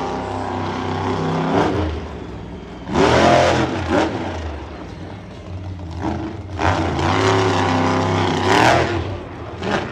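Monster truck's engine running, then revving hard in repeated surges, its pitch climbing and falling as the throttle is worked, with the loudest bursts about three seconds in and again over the last few seconds.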